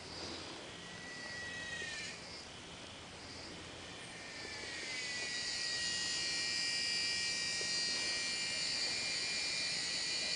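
A cicada buzzing: a short, fainter burst in the first two seconds, then a second song that comes in around four seconds, sliding up in pitch and growing louder before holding a steady shrill buzz.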